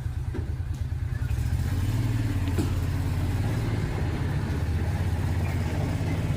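A nearby motor vehicle's engine running with a steady low rumble, just after starting; it grows louder over the first second and a half, then holds steady.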